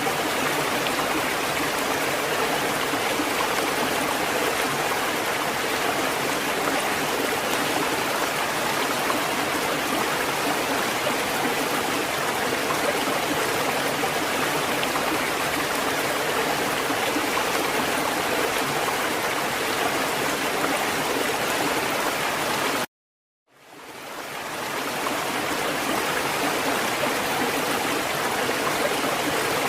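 Steady rushing water, an even hiss with no distinct wave swells. About three-quarters of the way through it cuts to silence for about half a second, then fades back in.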